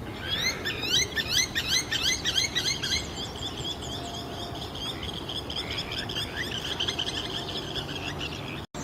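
Flock of helmeted guineafowl calling: a dense run of rapid, harsh, repeated calls, cut off suddenly near the end.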